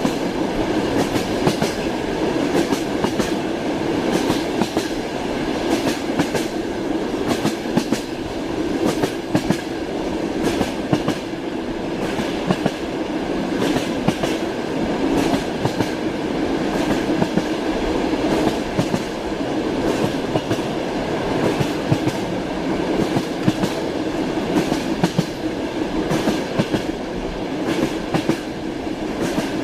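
Train wheels clicking over rail joints with a steady rumble of the moving carriage, the clicks coming in repeated groups.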